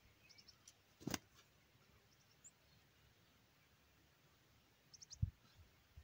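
Faint, high, quick chirps from small birds in short runs of three or four notes, heard three times. A sharp click comes about a second in and a low thump about five seconds in.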